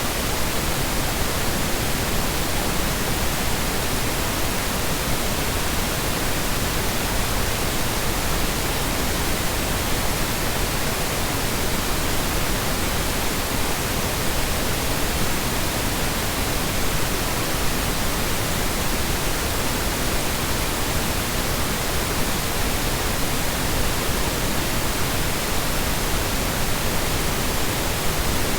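Steady synthetic colour noise used as a masking sound: an even, continuous hiss spread over low and high pitches alike, with no changes in level.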